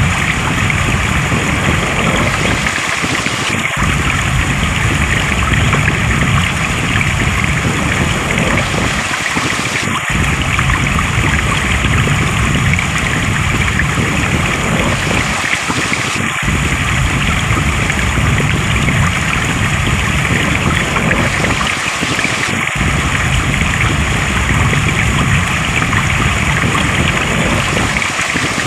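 Flowing stream water rushing steadily, with a brief dip in the low rumble about every six seconds.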